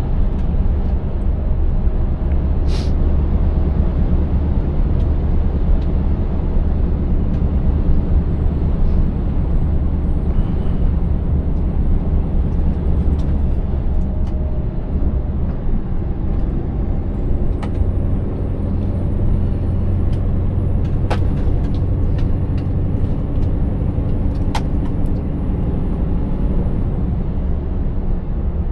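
Scania 590S truck's V8 diesel engine running steadily under way, with a deep rumble and road noise. A faint high whine rises and holds through the second half, and a few short clicks come through.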